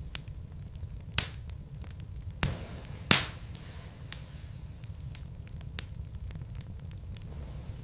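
Wood fire burning in a fireplace: a steady low rumble of flame with scattered sharp crackles and a few louder pops from the burning logs, the loudest about three seconds in.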